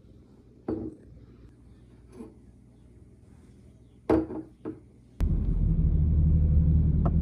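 A few soft knocks and clunks over a quiet background, then about five seconds in a car's steady low engine and road rumble comes in suddenly and carries on.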